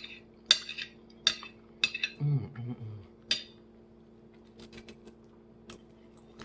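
Cutlery clinking against a plate or dish, five sharp clinks in the first few seconds, then fainter small clicks and taps. A brief hummed 'mm' comes near the middle.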